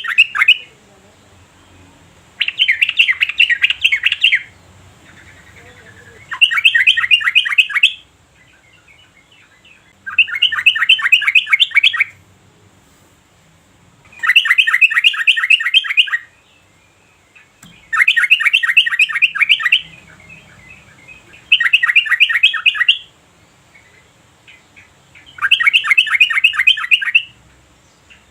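Yellow-vented bulbul singing: phrases of fast, bubbling chattering notes, each about two seconds long, repeated about every four seconds with short pauses between.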